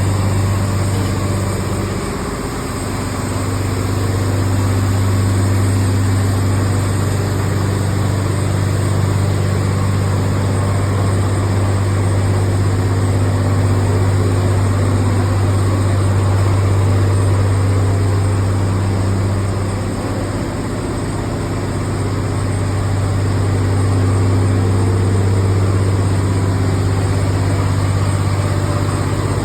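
Large engine running steadily with a deep, low drone, its loudness dipping briefly about two seconds in and again about twenty seconds in.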